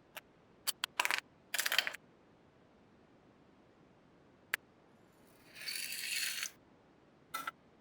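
Small hard parts of a toy truck model clicking and rattling as they are handled, in a few short bursts. A noisy rasp lasting about a second comes in the middle.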